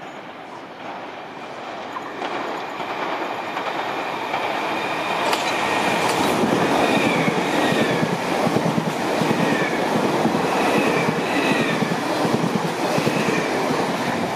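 An electric multiple-unit train on the South Western Railway line comes into the station, growing louder over the first few seconds, then rumbles and clatters past on the rails. Short wheel squeals rise and fall several times in the second half.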